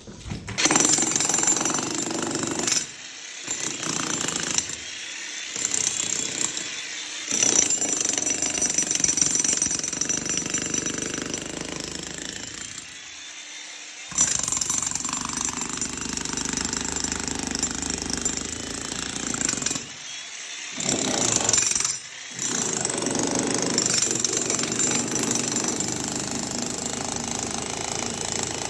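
Electric demolition hammer chiselling out a concrete slab, running in long stretches broken by several short pauses.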